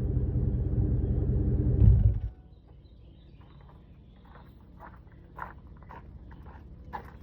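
2003 Ford Expedition's 5.4 V8 idling warm through a Thrush welded muffler and stock pipe, a deep steady exhaust rumble that swells briefly and then cuts off suddenly about two seconds in as the engine is switched off. After that, faint irregular taps.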